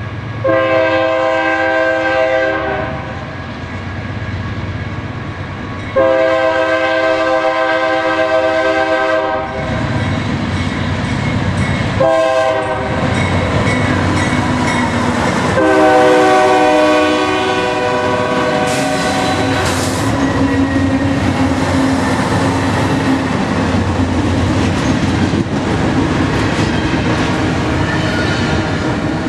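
Freight locomotive's multi-tone air horn sounding the grade-crossing signal: long, long, short, long. The train then rolls past close by with a steady rumble and wheels clacking on the rails.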